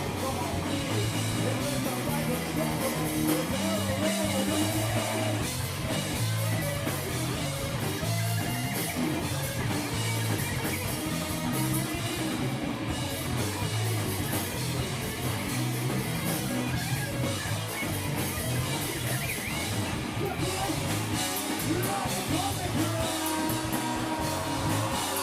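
Live rock band playing: electric guitar, bass and drum kit, at a steady loud level throughout.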